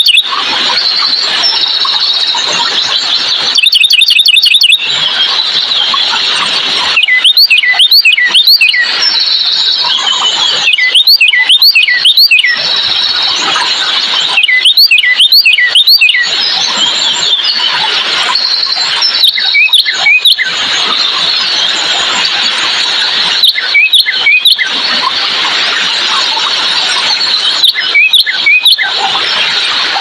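Birds calling: clusters of loud, sharp chirps that slide quickly in pitch come every three to four seconds, with a rapid trill about four seconds in, over a dense, steady, high-pitched background chorus.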